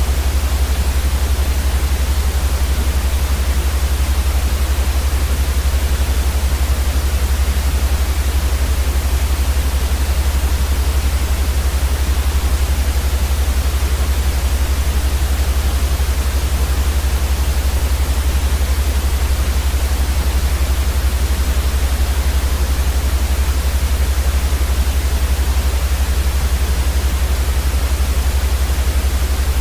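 Steady white noise for sleep: an even, unchanging hiss across the whole range, with a much stronger deep rumble underneath.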